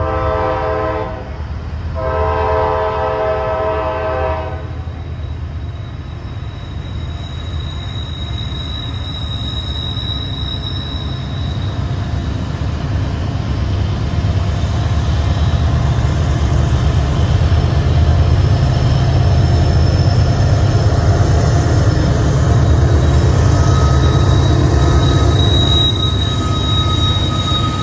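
Freight train led by a Norfolk Southern diesel locomotive sounding two blasts of its air horn chord as it approaches, one short and then a longer one. The low rumble of the locomotives' diesel engines then builds steadily as they come near and pass, with a thin high whine coming and going above it.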